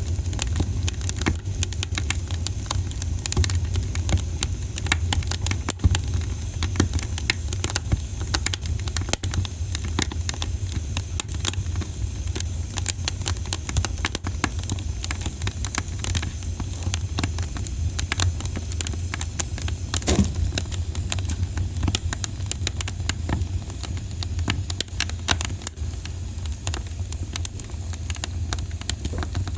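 Campfire burning with a steady crackle of sharp pops and snaps over a low rumble, with one louder pop about twenty seconds in.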